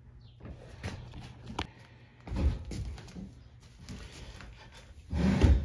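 Clunks of things being handled and set down while working on the mower: a few light clicks, then two heavier thumps about three seconds apart, the second the louder.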